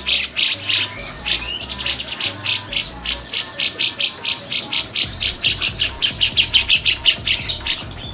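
Javan cucak jenggot (grey-cheeked bulbul) singing a fast, unbroken run of sharp high notes, several a second.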